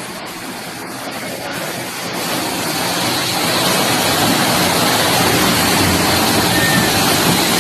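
Rushing floodwater: a dense, steady rush of water that grows louder about two seconds in.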